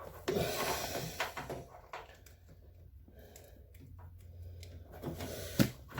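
Hands handling wires and parts inside a washing machine: a second or so of rustling and scraping, quieter fiddling, then one sharp click near the end.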